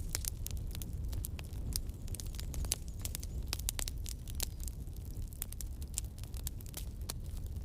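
Campfire crackling: irregular sharp pops and snaps of burning wood, several a second, over a steady low noise.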